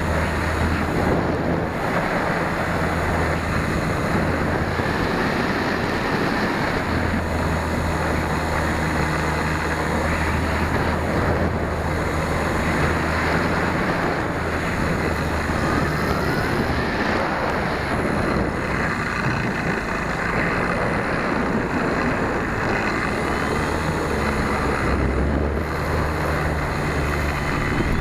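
Airstream rushing over the microphone of an 808 keychain camera on the tail of an RC Super Cub in flight, a steady rush with a low drone underneath. Faint gliding whines from the plane's brushless electric motor and propeller rise and fall now and then.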